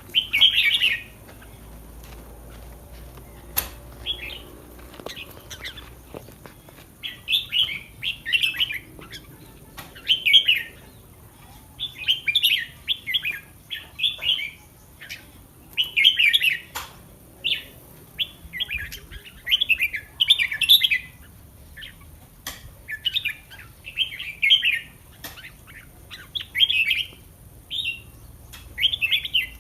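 Red-whiskered bulbul singing: short warbled phrases, about one a second, with a few brief pauses between runs.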